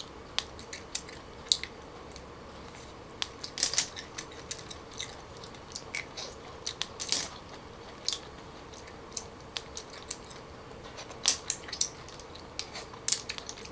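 Close-up eating sounds of clams eaten by hand: chewing and mouth smacks, with scattered sharp clicks throughout.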